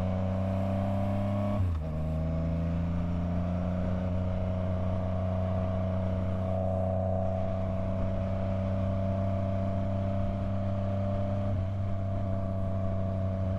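Yamaha MT-09 motorcycle's three-cylinder engine running under way, its pitch creeping up as the bike gathers speed. Less than two seconds in, the pitch drops sharply with a short dip in level, as at a gear change, and there is a smaller break near the end.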